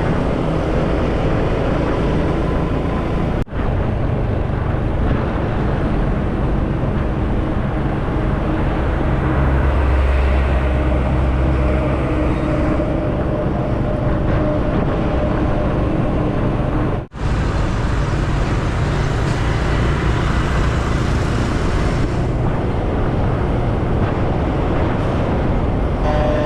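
Motorcycle engine running at high speed, mixed with heavy wind rush over the camera's microphone. The sound drops out briefly twice.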